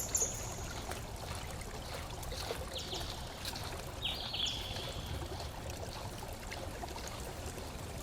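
Small stream of water trickling and running steadily, with a few short high chirps over it.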